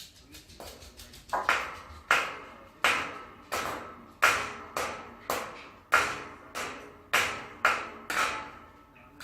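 A hard object struck over and over, each knock with a short ringing tail. It starts faint and turns into a steady run of loud knocks about one and a half a second.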